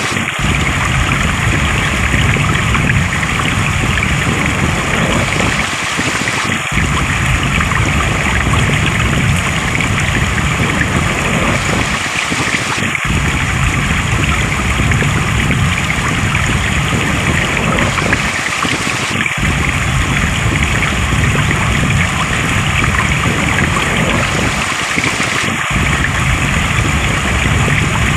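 Steady rush of flowing stream water. It is a short recording played in a loop: the low rumble drops out for a moment about every six seconds.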